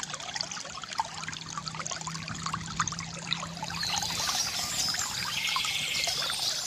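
Water trickling and gurgling from a bamboo fountain, a dense run of small drips and bubbling splashes over a low steady hum. A bird trills higher up in the last couple of seconds.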